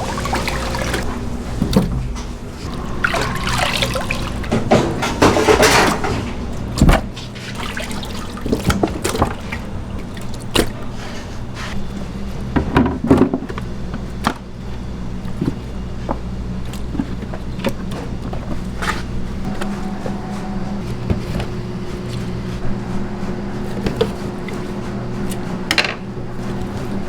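Kitchen work: scattered knocks and clatter over a steady low hum, with stretches of water-like splashing.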